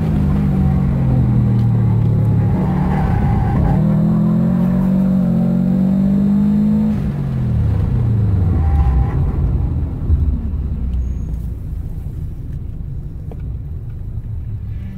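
The 2004 Subaru WRX's turbocharged flat-four engine is heard from inside the cabin as the revs climb over the first several seconds. About seven seconds in the revs fall away as the car brakes to a stop, and the engine settles to a quieter low run.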